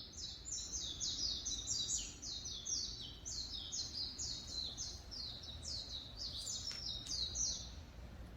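A bird singing a long run of quick, high notes that each slide downward, about three a second, stopping shortly before the end.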